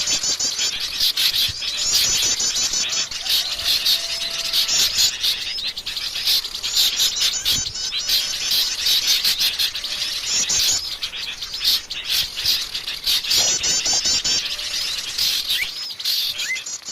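Wild forest birds calling together: a dense run of rapid, high chirps and trills overlapping throughout.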